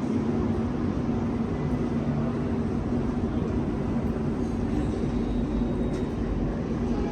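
Steady rumble and hum of a metro station, with a constant low droning tone throughout.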